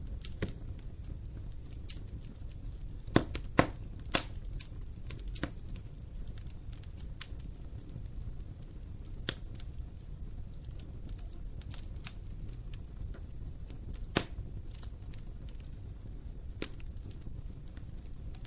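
Wood fire in a fireplace crackling: sharp pops scattered over a low steady rumble of the flames, with a quick run of louder pops a few seconds in and one more loud pop later.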